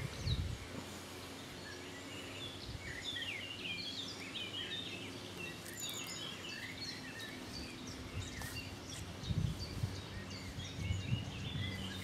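Several small birds singing and chirping in quick, overlapping short phrases over a steady faint outdoor hiss, with a few low thumps near the start and again about nine and eleven seconds in.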